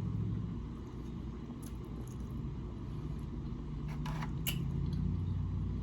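Chewing noodles: a few faint, short mouth clicks over a low steady hum.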